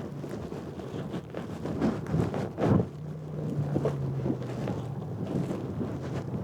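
Motorcycle engine running at a steady low idle from about three seconds in, under gusty wind buffeting the microphone, with scattered knocks and a loud buffet just before the engine note settles.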